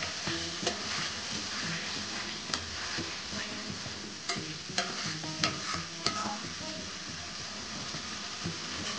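Spicy egg curry sizzling in a large metal wok while a metal spatula stirs it, scraping and knocking against the pan about six times in the first six seconds. After that only the steady sizzle goes on.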